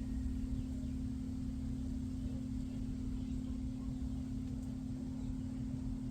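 A steady low hum holding one pitch, over a low rumbling background noise.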